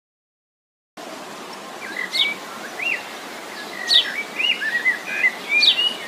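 Asian fairy-bluebird calling, starting about a second in: a string of short whistled chirps, some sliding up and some sliding down, over a steady background hiss.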